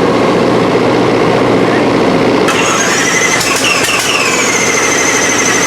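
An engine running steadily and loudly. About halfway through a high-pitched squeal joins in, with two tones that fall slightly in pitch.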